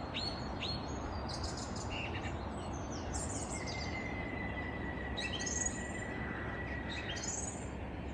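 Morning songbird chorus led by a thrush, opening with one short high note repeated several times in quick succession, then varied song phrases and a long level high note in the middle. Under it runs the steady rush of distant surf.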